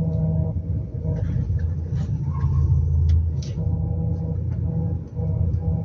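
Volkswagen Passat B5 power steering pump humming over the idling engine: a steady drone with a fainter higher tone that fades in and out. The hum comes with the steering wheel left alone and stops under steering load, with the fluid level fine and not foaming.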